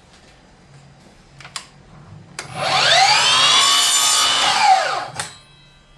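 Cordless chop saw spinning up about two and a half seconds in and cutting through a wooden stick, its motor whine rising in pitch and then falling as it winds down near the end. A few light knocks from handling the wood come before it.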